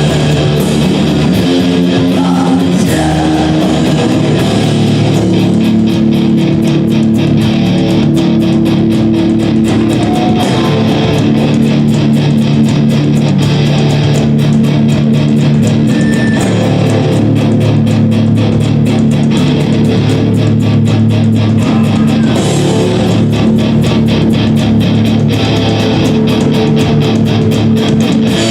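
Band playing loud rock music live: held electric guitar and bass chords that change every few seconds over fast, dense drumming.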